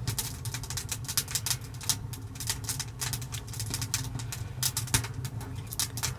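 Wood fire crackling in the firebox of a tent stove, freshly lit and still catching: many sharp irregular snaps and pops over a steady low hum.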